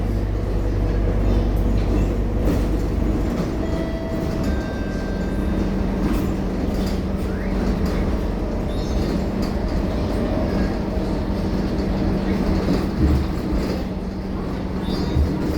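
Scania K230UB city bus running, with its five-cylinder diesel and driveline giving a continuous drone and rattles. A deep low hum in the first few seconds gives way, about four seconds in, to a steady higher-pitched drone as the bus gets under way. There are a couple of low thumps near the end.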